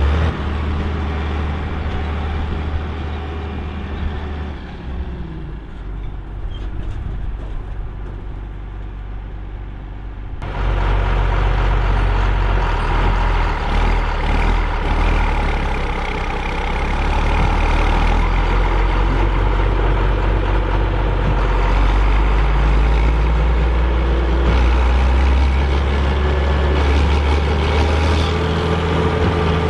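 John Deere 4955 tractor's six-cylinder turbo diesel running hard under the load of a Krone BigPack big square baler: a steady, deep engine drone. It gets suddenly louder about ten seconds in.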